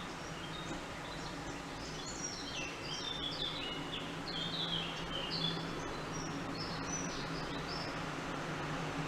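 A small bird chirping a quick run of short, high notes, starting about two seconds in and stopping near the end, over steady outdoor background noise with a low hum.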